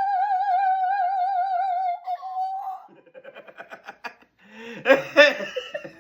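A person's voice holding a long, high, opera-style sung note with vibrato, drifting slightly lower until it stops about two seconds in. A quick stuttering run of short vocal pulses follows, then louder choppy vocal bursts near the end.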